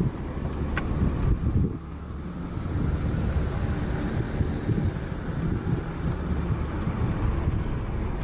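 Steady low rumble of a car on the road, with some wind noise mixed in.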